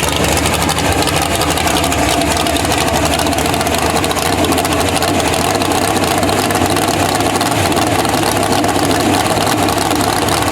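Supercharged pulling tractor's engine running steadily at a loud, even low speed, with no revving up.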